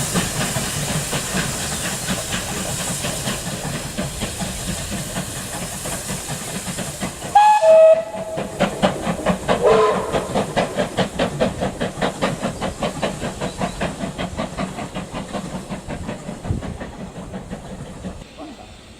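Steam locomotive hissing steam, then giving a short whistle about seven seconds in, followed by a steady rhythm of exhaust beats as it pulls away, fading out.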